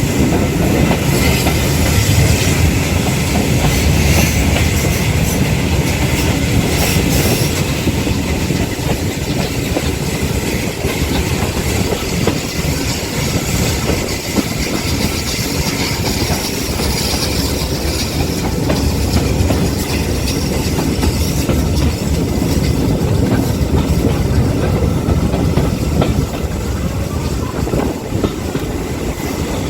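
Heritage railway carriage in motion, heard from inside: steady rumbling running noise with the wheels clattering over the rail joints and an occasional knock.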